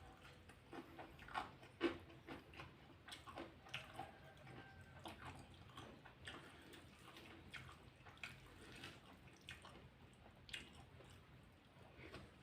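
Faint, close-up chewing and mouth sounds: irregular small crunches and wet clicks of someone eating raw watercress.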